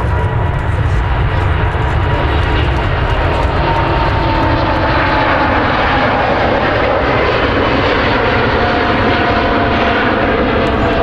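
Airbus A350-900 jet airliner taking off, its twin Rolls-Royce Trent XWB turbofans at takeoff power: a loud, steady rushing noise with a thin whine that slowly falls in pitch.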